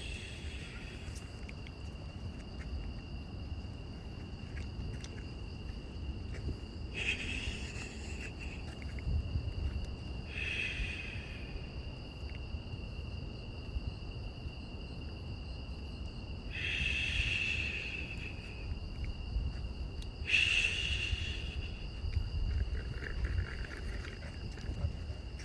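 A steady chorus of night insects, with an unidentified noisy animal cry about a second long breaking in about five times, a few seconds apart.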